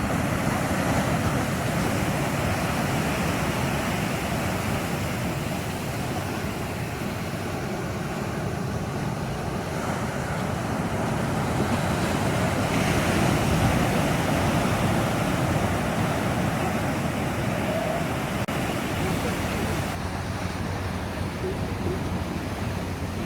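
Ocean surf washing in continuously, swelling a little about halfway through, with wind buffeting the microphone.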